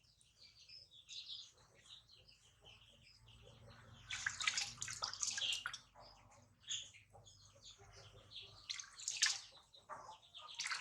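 Water splashing and dripping in small irregular bursts as a newborn monkey is bathed in warm water. The splashes come loudest about four seconds in and again near the end.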